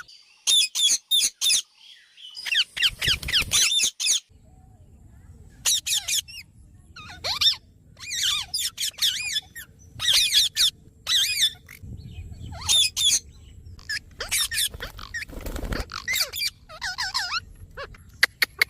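Parrot calling: many short, high, squeaky calls that swoop up and down in pitch, coming in quick clusters with short pauses between.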